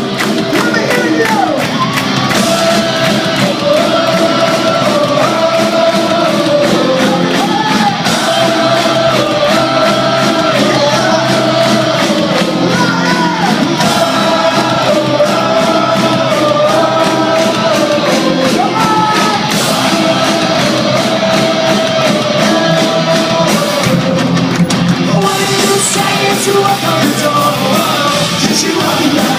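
Pop-punk band playing live: loud, continuous rock music with a melody line stepping up and down over the band.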